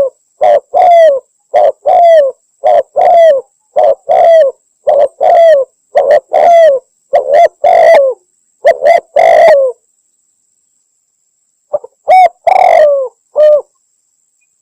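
Spotted dove (tekukur) cooing in a steady series of short-long coos, about one a second, pausing about ten seconds in before a few more coos. It is a hunting lure call, which the uploader takes for a female calling a male.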